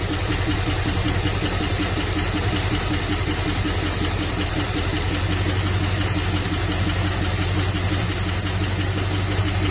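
Carbureted small-block Chevy V8 of a 1978 K5 Blazer idling steadily on the fast idle cam during a cold warm-up, its choke partly open.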